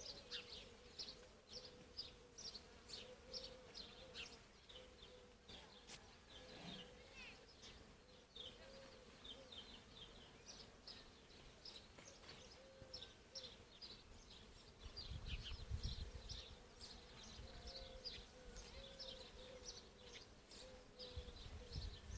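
Faint countryside ambience of small animals chirping: many short, high chirps, a few a second and unevenly spaced. A brief low rumble of wind on the microphone comes about fifteen seconds in.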